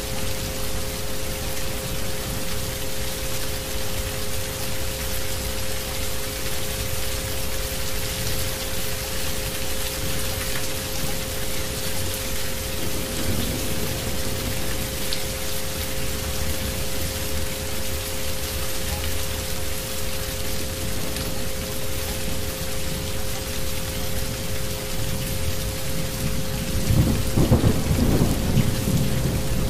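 Steady rain falling on a hard surface, with two steady electronic tones underneath: the track's isochronic frequency tones. A rumble of thunder swells near the end.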